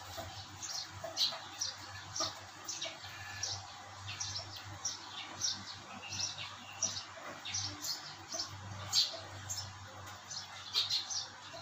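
Small birds chirping continually, short high chirps a few times a second, over a low steady hum.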